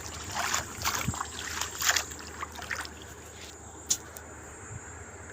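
Water splashing and sloshing in short irregular bursts for about three seconds, then a low steady background with a single sharp click.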